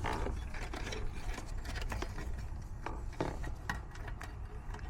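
Scattered light clicks and rubbing as a technician handles wiring and parts at an air-conditioning unit's electrical connections, over a steady low rumble.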